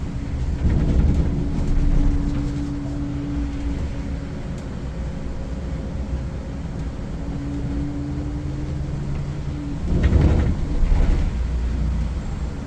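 Volvo B8R six-cylinder diesel engine of a Volvo 9600 coach running steadily, a constant engine hum. About ten seconds in, a brief louder rush of noise.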